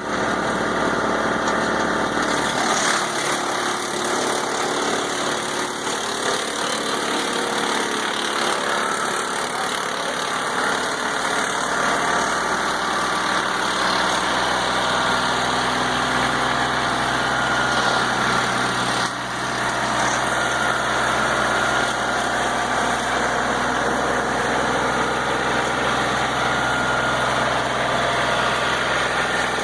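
An engine running steadily, with a brief dip about 19 seconds in.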